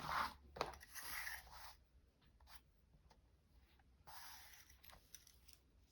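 Paper being handled: two soft rubbing, sliding strokes, one about a second in and one near four seconds in, with a few light ticks between them.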